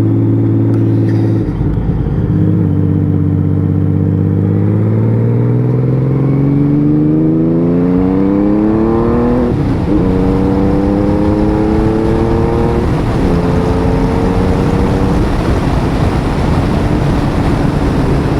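Honda Valkyrie 1500's flat-six engine accelerating hard through the gears. After a shift about a second and a half in, the engine note rises steadily for several seconds, drops at the next shift around nine and a half seconds in, climbs again, and shifts twice more as the bike reaches about 60 mph. Wind rush builds as the speed rises.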